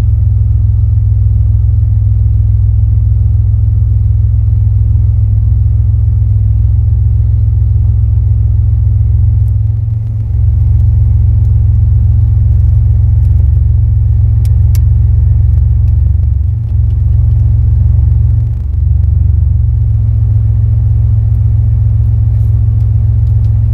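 Car engine idling: a loud, steady low rumble heard from inside the cabin, with a few brief dips.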